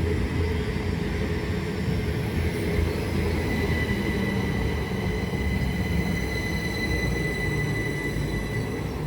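A pair of Class 387 electric multiple units with a steady high electrical whine over a low rumble. The whine is strongest in the middle of the stretch.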